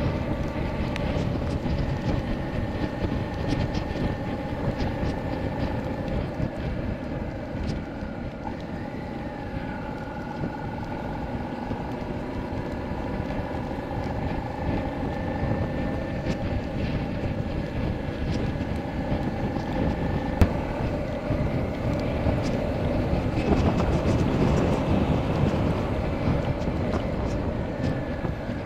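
Motorcycle engine running while riding, with wind and road noise rushing over the rider; the engine note rises and falls gently with the throttle and grows louder for a few seconds near the end.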